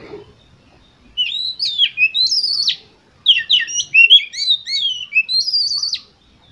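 Oriental magpie-robin singing: two phrases of loud whistled notes that slide up and down, the second phrase starting about three seconds in.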